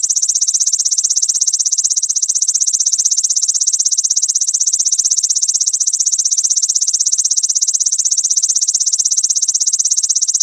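Grasshopper (belalang) stridulating: a continuous, high-pitched, very fast, even buzzing trill.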